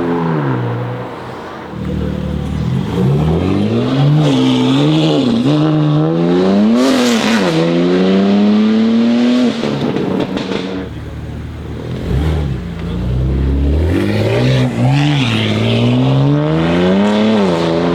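Modified BMW M3 G80 with an aftermarket exhaust, its twin-turbo straight-six revving and accelerating hard. The pitch rises and falls in a series of quick blips, climbs in one long pull near the middle, drops back to a lower rumble, then blips several times again.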